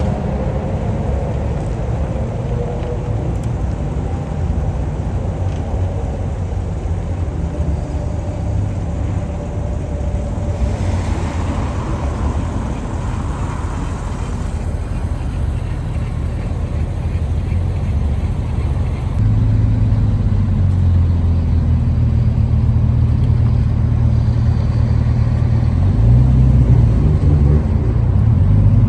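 Car engines running at low revs, a steady low rumble. About two-thirds of the way through a closer engine note comes in louder, and near the end its pitch rises and falls a little.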